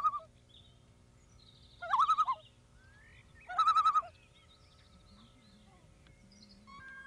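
A large bird calling loudly three times, each call about half a second long and about two seconds apart. Fainter bird chirps follow near the end.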